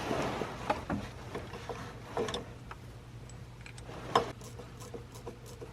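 Harmonic balancer puller parts handled and fitted together by hand: scattered light metal clicks and taps, the sharpest about two and four seconds in, over a faint steady low hum.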